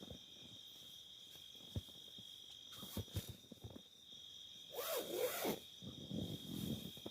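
A zipper pulled with a rasping sweep about five seconds in, with a few light clicks before it, over a steady high whine.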